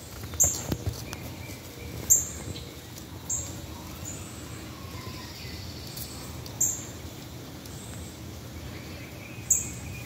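Five short, high-pitched bird chirps at irregular intervals, a second or more apart, over a steady low outdoor background.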